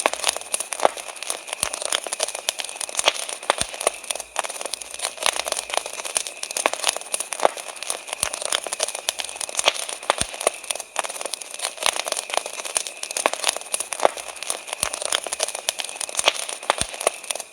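Wood fire crackling with a dense, irregular run of pops and snaps, and crickets singing steadily behind it.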